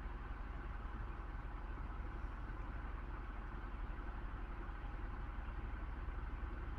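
A steady, continuous low rumbling hum.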